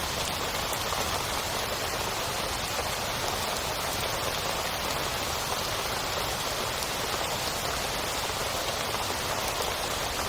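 Heavy rain falling steadily on a tent, a dense, even hiss of drops with no let-up.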